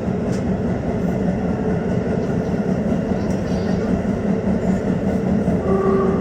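Tokyo Metro 15000 series subway train running through a tunnel, a steady rumble of wheels and running gear heard from inside the front car. A short higher tone sounds near the end.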